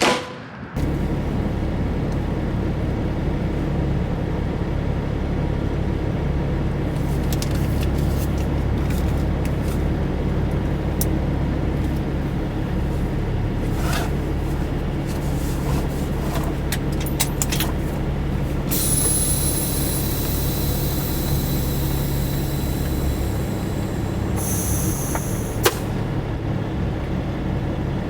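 Semi truck's diesel engine running with a steady low drone, a few light clicks over it. About two-thirds of the way in comes a long hiss of air lasting several seconds, then a shorter hiss a few seconds later.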